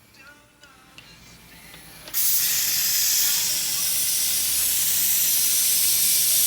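A high-pressure spray cuts in suddenly about two seconds in and runs as a loud, steady hiss.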